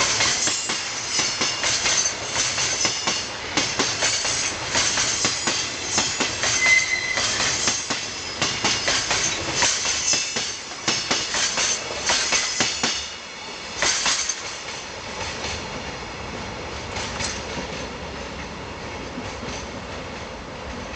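Freight train passing at speed, wheels clacking over rail joints in a rapid, irregular run of clicks with metallic rail noise, with a brief high squeal about seven seconds in. The clacking stops after about thirteen seconds and a fainter, steady rumble fades as the train draws away.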